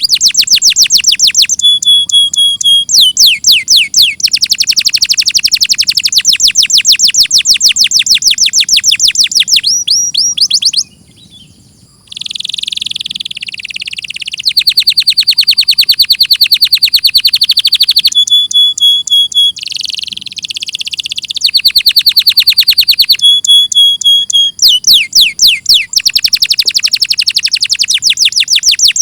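Domestic canary singing: long, fast trills of rapidly repeated high notes, each run changing to a new note pattern every few seconds, with a few harsher, rasping passages and a short pause about eleven seconds in.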